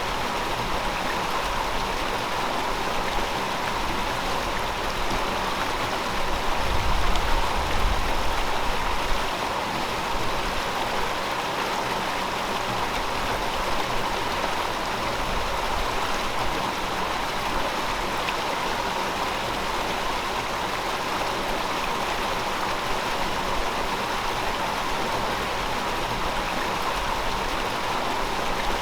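Gentle river flowing, a steady even rush of water. About seven seconds in, a low rumble swells for a couple of seconds and fades.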